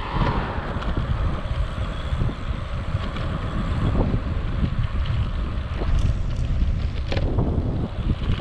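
Wind buffeting an action camera's microphone that has no wind muff, a loud low rumble that flutters in level, with some road noise from the moving e-bike underneath. A couple of brief clicks come near the end.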